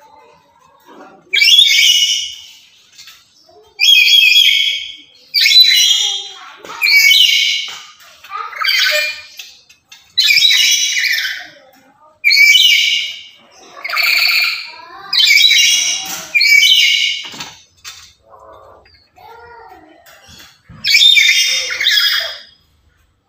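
Black-capped lory giving loud, harsh squawks: about a dozen calls of roughly a second each in quick succession, with a short quieter lull before the last pair.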